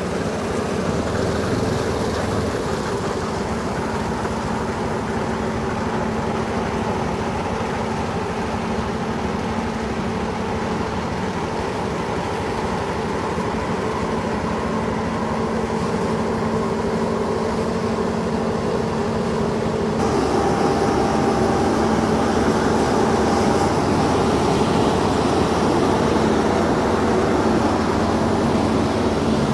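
A combine harvester working in the field, a steady heavy machine hum with several held pitches. About twenty seconds in, the hum changes abruptly to a slightly louder one with different pitches.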